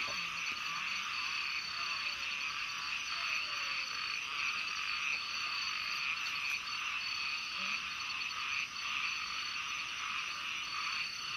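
A dense chorus of many small frogs calling from a pond, a steady wash of overlapping croaks and trills, with a thin pulsing high trill running over it.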